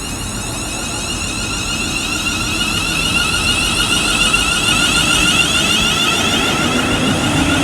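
A train passing through the station, getting steadily louder, with a high steady whine over the rumble and rush of the wheels on the rails.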